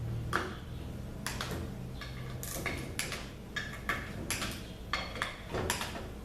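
Scattered light metallic clinks and taps of small parts being handled on a ZF 6HP26 automatic transmission valve body, with a low steady hum that fades out about halfway through.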